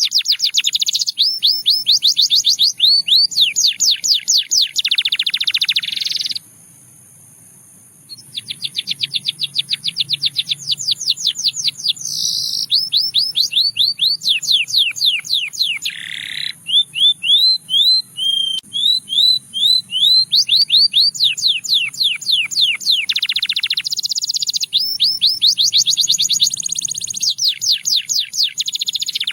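Russian singing canary singing: fast trills of rapidly repeated high sweeping notes, one run after another, with a pause of about a second and a half a little after six seconds in.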